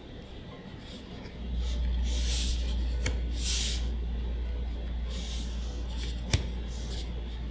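Crinkly rustles of foil booster-pack wrappers and trading cards being handled, with a couple of sharp little clicks. A steady low hum starts about a second and a half in and carries on underneath.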